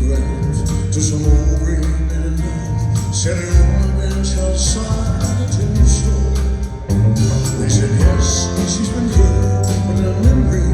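Live band playing a country-style ballad with a male singer: sustained bass notes under steady drums and cymbals.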